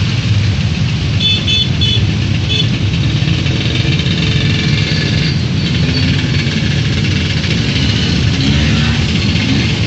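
Motorcycle and car engines running through a flooded street in the rain, over a steady wash of rain and water noise. A few short high beeps come about a second in, and an engine revs up and down near the end.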